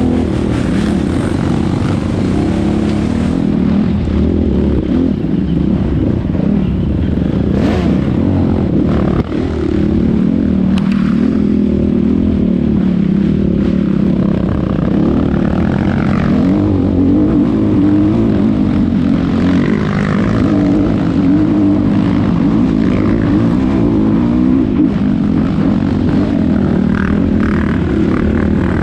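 Yamaha DT 180's two-stroke single-cylinder engine running continuously, its pitch wavering up and down with the throttle, with a brief dip about nine seconds in.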